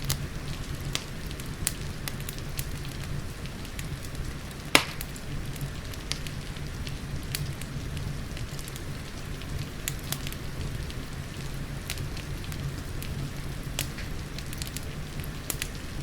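Wood fire crackling in a fireplace with steady rain, scattered sharp crackles over a low steady rumble, and one loud pop about five seconds in.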